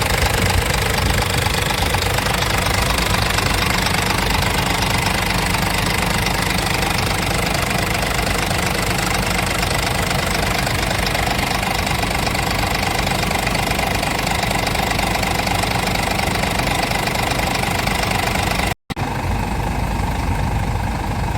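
Scania P truck's diesel engine running steadily with no change in speed. It breaks off abruptly about 19 seconds in and picks up again straight away with less hiss.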